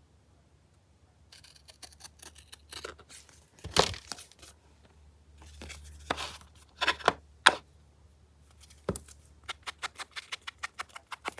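Paper and card being handled on a craft table: rustling with scattered sharp taps and clicks, then a quick run of small ticks near the end.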